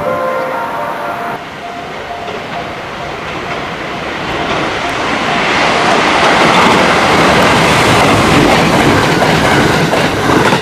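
A train approaching and running past on the track, its wheel clatter and running noise building to a loud, steady rush from about five seconds in, then cutting off abruptly.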